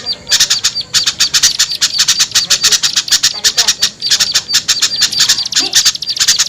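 Bird-lure recording of small songbirds chattering noisily, a dense run of rapid harsh calls without a break. It is agitated 'ribut' chatter of bulbul-type birds such as sooty-headed and yellow-vented bulbuls, played to draw small birds down.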